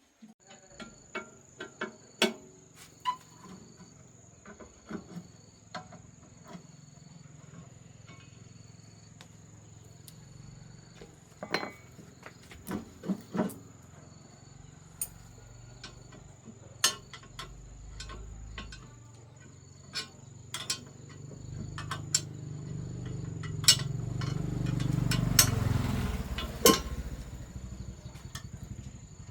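Scattered clinks and knocks of hand work on a rice-separating machine, over a steady high-pitched insect trill. A low rumble builds in the last third, with a few louder knocks, then dies away near the end.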